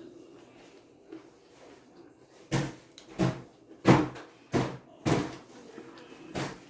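Loud crunching of tortilla chips (flaming hot Doritos nachos) being chewed close to the microphone. The crunches start a couple of seconds in and come in an even rhythm, about three every two seconds, with a short pause before the last one.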